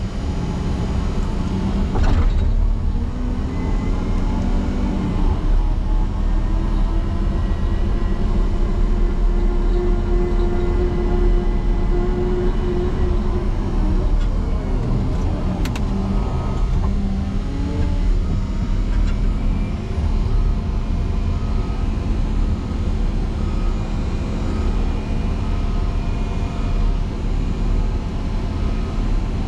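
Motor grader's diesel engine working hard while plowing into a deep snow drift: its pitch climbs over the first few seconds, holds, then falls back about halfway through, with a single sharp click soon after.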